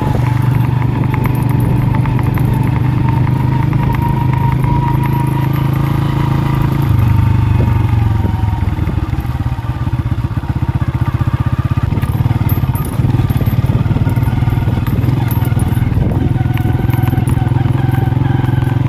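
Small Honda motorcycle's single-cylinder engine running while riding, a steady low hum. About seven seconds in it pulls harder, then eases off for several seconds before picking up again.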